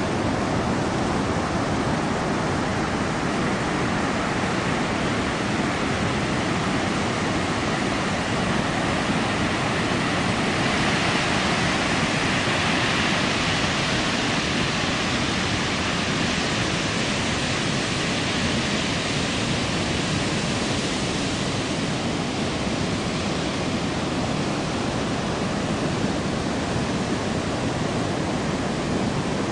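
Continuous roar of heavy storm surf breaking on the beach, raised by an approaching typhoon. It grows a little brighter and louder about ten seconds in, then settles back.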